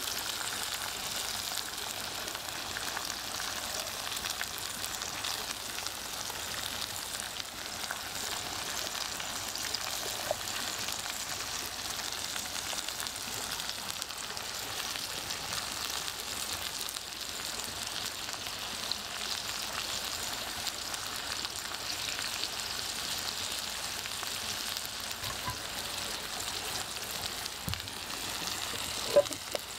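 Ribeye steak and hash browns frying in rendered beef fat in a pan over a wood fire: a steady sizzling hiss with faint scattered ticks. A brief sharp knock sounds near the end.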